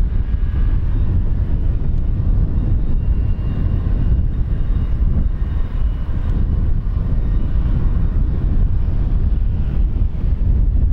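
Aircraft engines running: a steady low rumble with a faint high whine.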